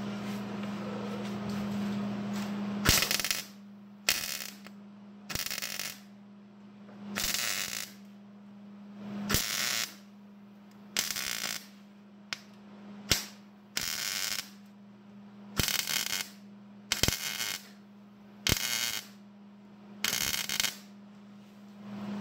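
MIG welder stitch-welding thin truck sheet metal in short bursts: about a dozen crackling bursts of under a second each, one every second or two, with a steady hum underneath.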